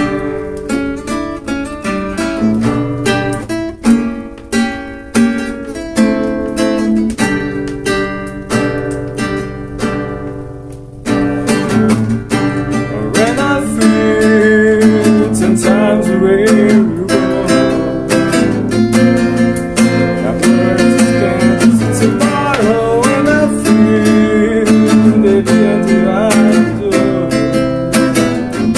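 Acoustic guitar music. It starts with picked notes, and about eleven seconds in it turns into louder, fuller strumming.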